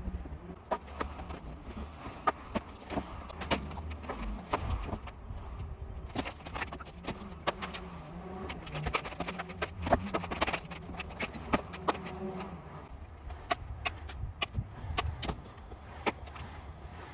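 Irregular knocks, taps and clicks of hand work on deck timber, over a steady low hum.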